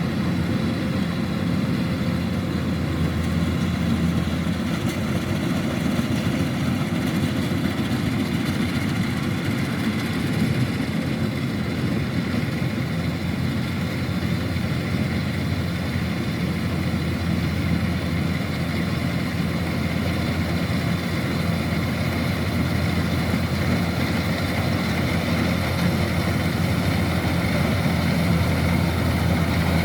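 Kubota DC-105X combine harvester's diesel engine running steadily while harvesting rice, an even drone with no change in speed.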